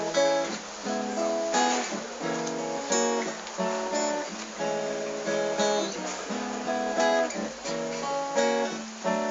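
Acoustic guitar strummed in an instrumental passage, chords struck about once a second and left ringing.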